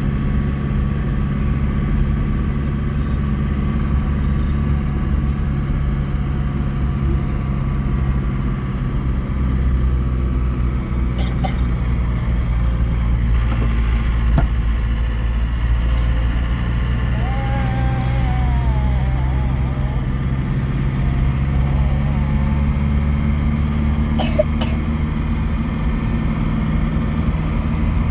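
A vehicle engine running steadily, heard as a continuous low hum, with a few brief sharp clicks.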